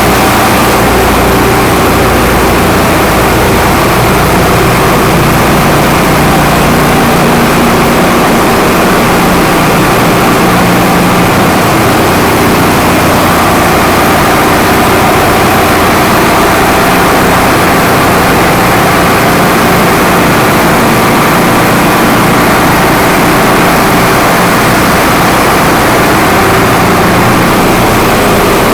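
Ship's engine-room machinery running: a loud, steady, unbroken din of heavy engines with a constant low hum.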